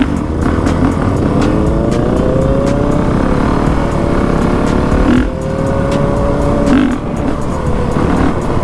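Dirt bike engine running while riding. Its pitch climbs steadily over the first few seconds as the bike accelerates, then holds steady, with wind rumbling on the microphone throughout.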